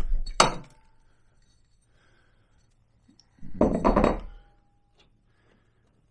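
Metal scooter drive parts knocking and clinking as they are handled and set down on a hard surface: one knock just after the start, then a quick cluster of clinks and thunks about three and a half seconds in, with a brief metallic ring.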